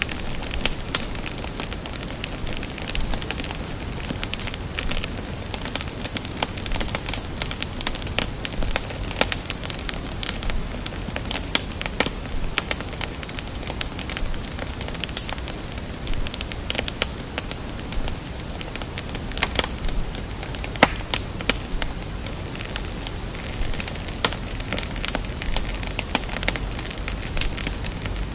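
Fire crackling steadily: many small, irregular pops and snaps over a constant soft hiss.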